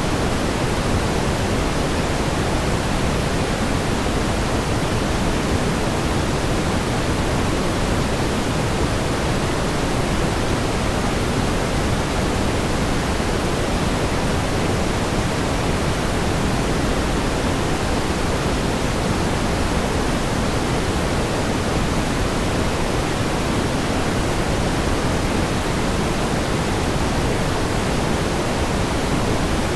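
Steady pink noise: an even, unchanging hiss heavier in the low end than white noise.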